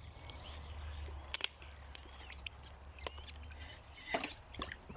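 Quiet outdoor ambience: a steady low rumble with scattered light clicks and knocks of handling, the loudest about a second and a half in and again about four seconds in.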